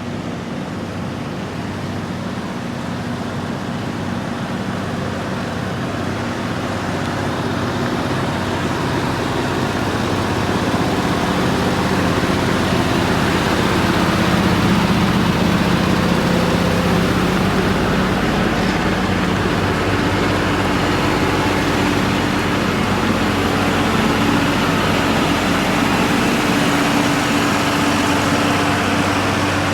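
Heavy truck's diesel engine running steadily, growing louder over the first half or so as it draws near, then holding at a constant level.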